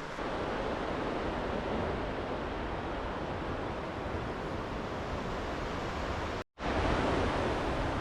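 Steady rushing of flowing creek water, with a split-second total dropout about six and a half seconds in.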